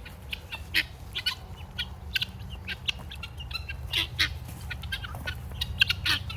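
A flock of guinea fowl chattering with many short, sharp calls in an irregular stream, over a steady low rumble.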